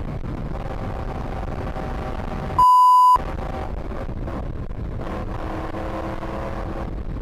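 Motorcycle engine and wind noise while riding, the engine cutting in and out as it runs out of fuel. About two and a half seconds in, a loud censor bleep, one steady high tone, lasts about half a second.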